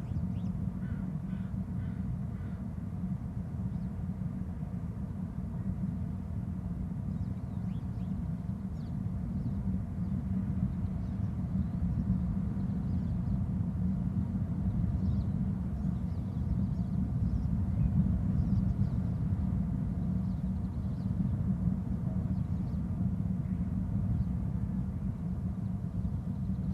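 Steady low outdoor rumble with faint bird calls over it. A short run of calls comes about a second in, and scattered faint high chirps follow later.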